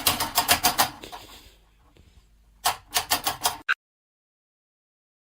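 Rapid sharp tapping or clicking, about eight to ten taps a second, in two runs: one at the start that fades out, and a shorter one nearly three seconds in that cuts off suddenly into silence.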